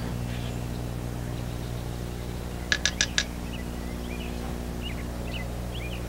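Birds calling: a quick run of four sharp calls about halfway through, then scattered faint short chirps, over a steady low hum.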